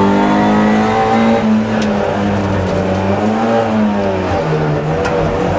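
Opel Kadett GT/E rally car's four-cylinder engine under hard driving, heard from inside the cabin. Its pitch rises and falls with the throttle, then drops to a lower, steadier note about four seconds in.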